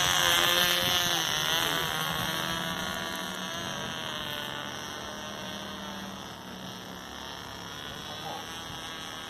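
Cox .049 two-stroke glow engine (0.8 cc) of a small balsa model plane buzzing in flight. It is high-pitched and wavers in pitch, loudest at the start and fading steadily as the plane moves away.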